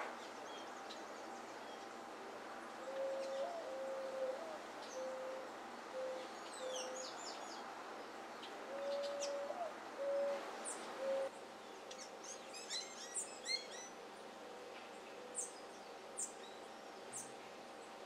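Wild birds calling: a run of low, short, evenly pitched hooting notes repeats for several seconds. Scattered high, sharp chirps run over it, with a quick burst of high twittering notes about two-thirds of the way in.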